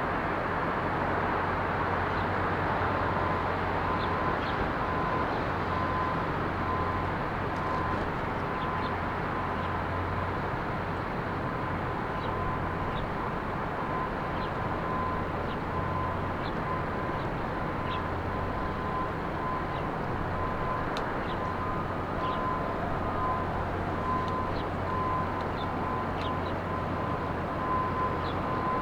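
Steady rumble of road traffic, with a low hum underneath and a mid-pitched tone that comes and goes from about three seconds in. Faint short bird chips sound now and then above it.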